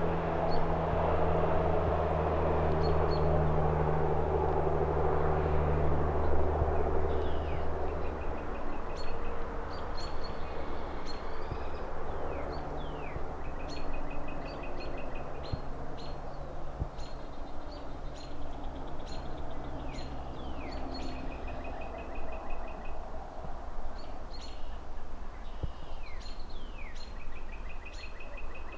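A passing engine drones low and steady, then fades out about eight seconds in. Birds chirping take over, with short quick trills and downward-slurred calls repeating, over a faint distant traffic rumble.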